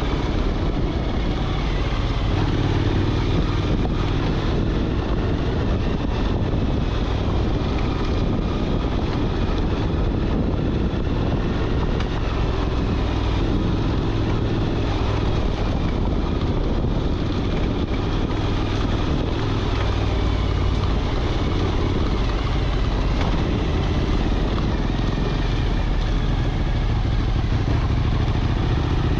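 Motorcycle engine running steadily for the whole stretch.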